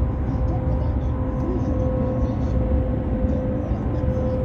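Steady low road rumble inside a car cabin at highway speed: tyres and engine noise with a faint steady hum.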